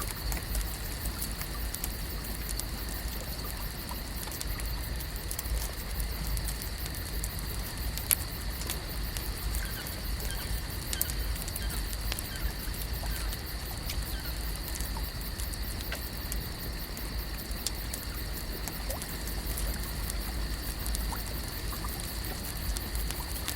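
Lakeside nature ambience: a steady high-pitched chorus over a low rumble, sprinkled with many small ticks and crackles, with one sharper click about a third of the way in.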